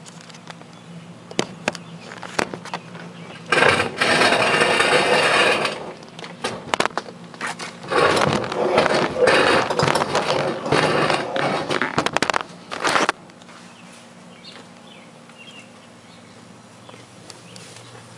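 Small steel-cased mini-fridge being pulled out and dragged across the floor: knocks and clatter, then two stretches of scraping, the second longer, with bumps among them.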